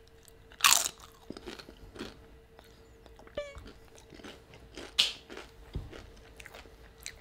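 A person chewing a mouthful of crisp tortilla chip with guacamole: scattered crunches and mouth sounds, the loudest about a second in and again about five seconds in.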